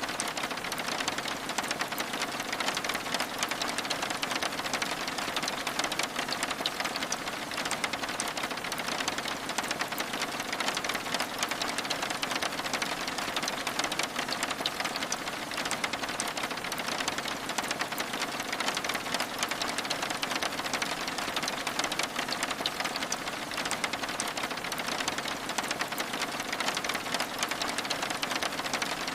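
Steady rain falling on window glass: a dense, even patter of many small drops with fine ticks throughout.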